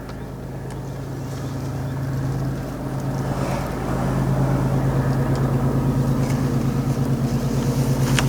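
Safari vehicle's engine running with an even pulsing hum that grows gradually louder through the first half, as when the vehicle moves off or is driven on.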